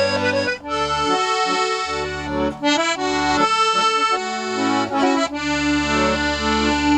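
A 72-bass Stefanelli accordion, freshly restored with cleaned and tuned reeds, playing an Irish folk tune: a melody line over bass notes and chords that change every second or so.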